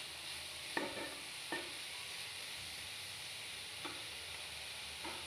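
Grated carrots frying in ghee in a nonstick kadai over a low flame: a quiet, steady sizzle, broken by about four short scrapes of the spatula against the pan.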